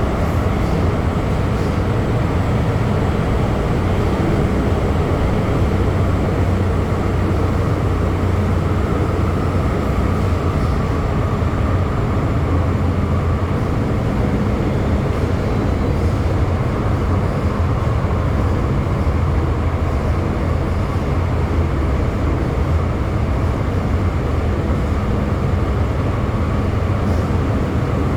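Inside an MTR M-train electric multiple unit running steadily at speed through a tunnel: a constant rumble of wheels on rail with a low traction-motor hum and a few faint ticks.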